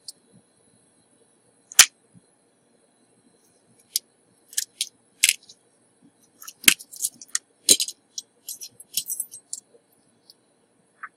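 Irregular light metallic clicks and taps of small hand tools being picked up and set down on a repair bench, with a few sharper knocks about two seconds in and again in the middle, over a faint steady high-pitched whine.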